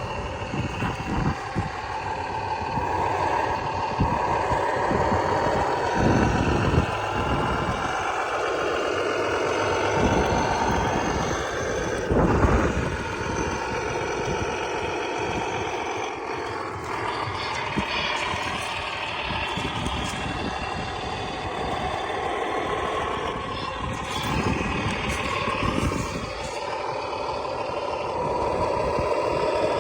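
Electric motor and gear drive of an HG P602 Cougar 6x6 RC military truck whining as it runs, the pitch drifting up and down with throttle and speed, with occasional low rumbling surges.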